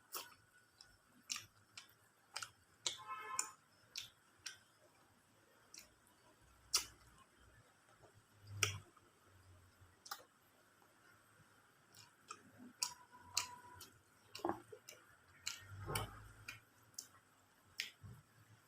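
Close-up mouth sounds of someone eating chicken biryani: irregular sharp clicks and smacks of chewing, with two soft low thumps.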